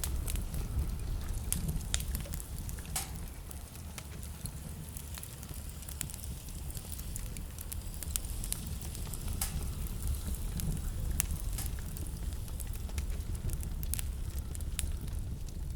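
Wood fire crackling in a fireplace, with irregular sharp pops and snaps, over a steady low rumble of blizzard wind.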